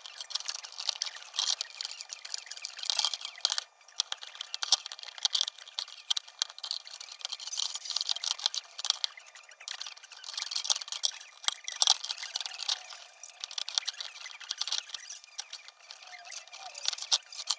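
Continuous scratchy rubbing and scrubbing on the lantern's tinned steel body, full of small clicks and scrapes, as linseed oil thinned with kerosene is worked into the metal.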